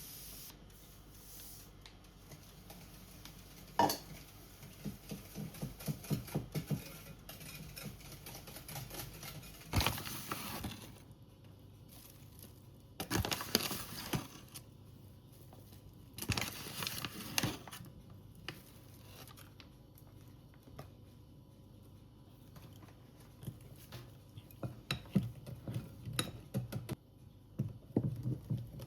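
Kitchen work with dishes and utensils: scattered clinks and taps, with three longer scraping sounds of about a second each.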